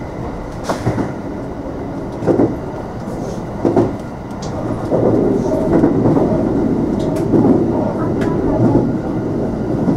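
JR West 227 series electric train running on the rails, with a steady running rumble and scattered sharp clacks of the wheels passing over rail joints. The rumble grows louder about halfway through.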